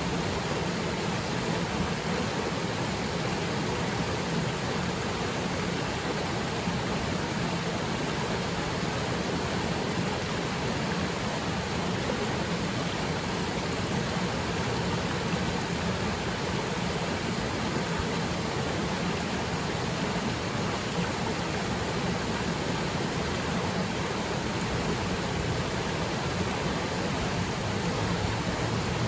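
Waterfall pouring into its plunge pool: a steady, even rush of falling water with no breaks or changes.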